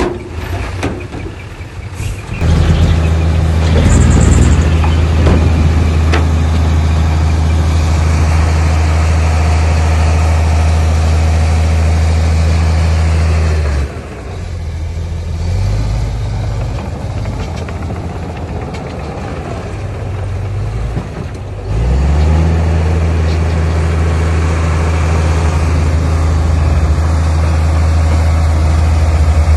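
Heavy diesel engine of earthmoving machinery running hard with a steady low drone. It comes up a couple of seconds in, eases off and wavers for several seconds around the middle, then climbs back to the same steady drone.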